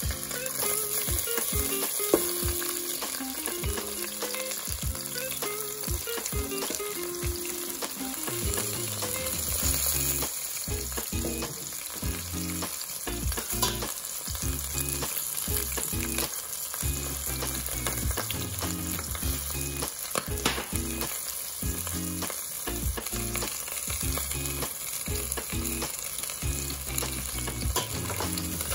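Pork hocks, shallots and garlic sizzling as they sauté in a stainless-steel stockpot, stirred and turned with a metal ladle that knocks and scrapes against the pot. There is a sharp clack about two seconds in.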